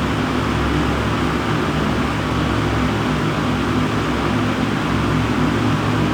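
Panasonic bathroom exhaust fan running steadily, drawing air with an even rush over a low, constant hum.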